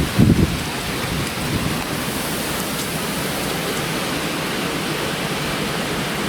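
Hurricane-force wind and driving rain, a steady rushing hiss, with a low buffeting of wind on the microphone in the first half second.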